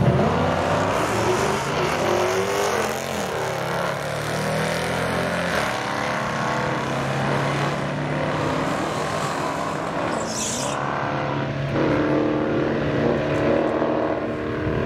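Modern Hemi V8 engines in drag-racing cars running, their pitch rising and falling with the revs.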